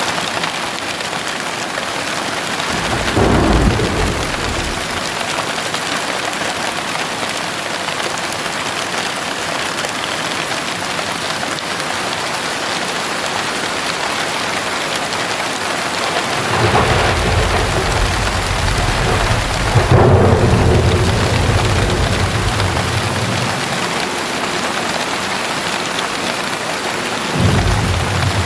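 Heavy rain falling steadily, with thunder rumbling three times: briefly about three seconds in, a longer, louder roll from about the middle to two-thirds through, and again near the end.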